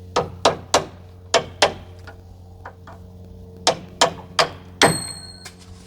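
Hammer tapping an old screwdriver used as a punch to drive a bolt out through a wooden 2x4 bracket: sharp metal-on-metal strikes in short groups, three, then two, then four, the last one leaving a brief ring. A faint steady hum runs underneath.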